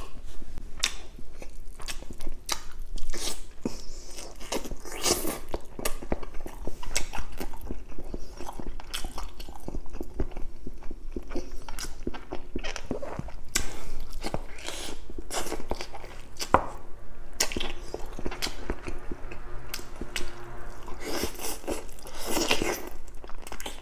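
A person chewing and biting lechon manok (roast chicken) eaten by hand with rice: wet mouth sounds with frequent short clicks and smacks.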